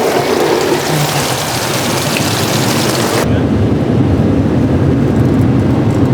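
Automatic car wash heard from inside the car: water spraying hard against the car's body, then about three seconds in the spray cuts off and a lower, steady rumbling noise takes over.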